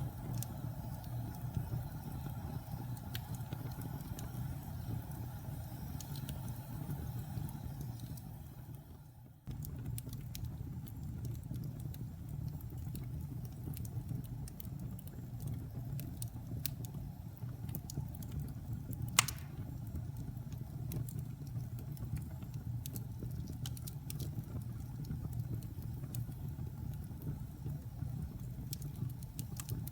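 Wood fire burning in a fireplace: a steady low rumble of flames with scattered small crackles and one sharp, louder pop a little past the middle. About nine seconds in the sound fades briefly and cuts straight back in.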